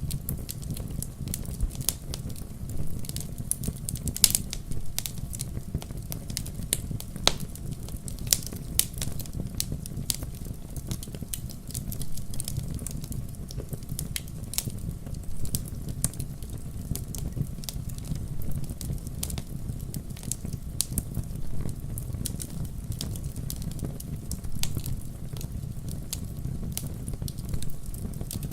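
Fireplace fire crackling, with irregular sharp pops and snaps over a steady low rumble of the burning flames. The loudest pops come around four seconds in and again a few seconds later.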